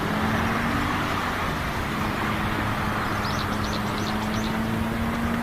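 A steady motor hum with a constant low tone over a broad noisy rush. A run of short, high chirps comes about halfway through.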